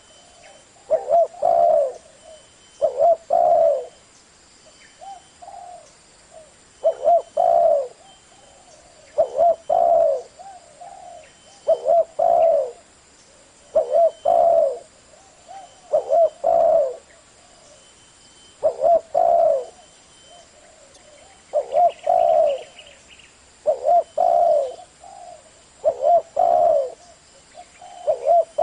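Spotted dove cooing in a low, deep ('giọng thổ') voice, repeating its phrase about every two seconds.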